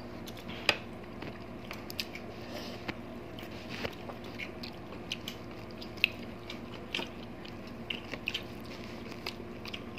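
Close-up eating sounds: chewing and wet mouth clicks as two people eat fried milkfish and rice with their fingers. Short sharp clicks come scattered throughout, the loudest about two-thirds of a second in and again near six and seven seconds.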